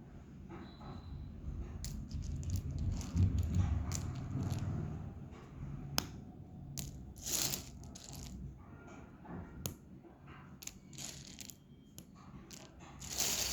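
Lumps of dry edible clay crunching and crumbling in irregular crisp cracks and crackles, with low thuds of handling a few seconds in.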